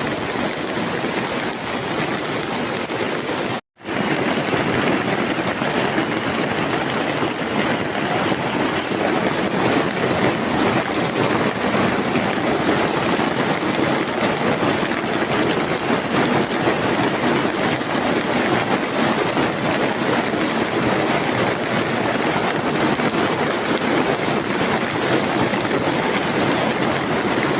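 Steady rain, an even hiss with no rhythm, cutting out for a split second about four seconds in.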